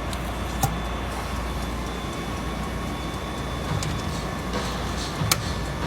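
Steady drone of running machinery in a ship's engine room, with a faint high whine and two sharp metallic clinks, one about half a second in and one near the end.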